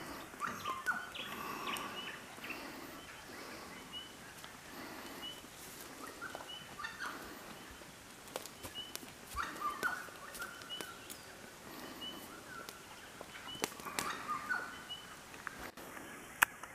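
Wild birds calling: a short high chirp repeated every second or so, with louder bursts of chattering calls near the start, about ten seconds in and about fourteen seconds in.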